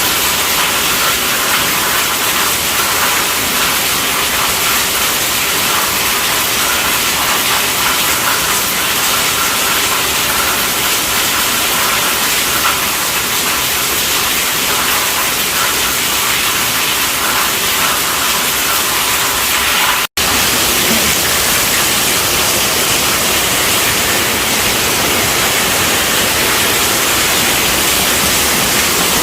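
Heavy rain drumming steadily on a tent roof, a dense even hiss with no thunder. The sound cuts out for a split second about two-thirds of the way through.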